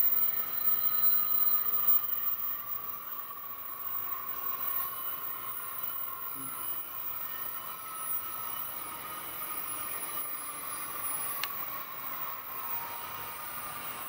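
Taiwan High Speed Rail 700T train pulling slowly into the station platform, a steady whine slowly dropping in pitch as it slows. The noise eases over the first few seconds, and there is a single sharp click near the end.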